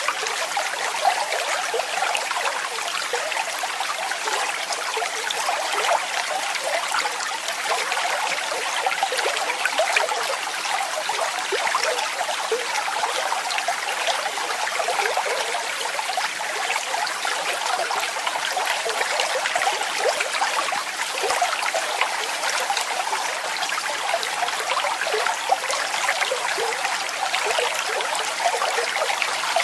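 Small waterfall splashing steadily: an even, bright rush of falling water with fine splashing detail and no deep rumble.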